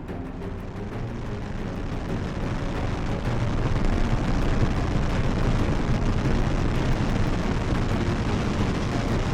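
Starship Ship 28's six Raptor rocket engines firing in a static-fire test: a deep roar that builds over the first few seconds, then holds steady and loud.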